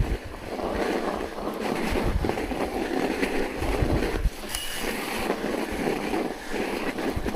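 Wind buffeting the microphone on a moving ride: a steady rushing noise with uneven low rumbles, and a brief high squeal about halfway through.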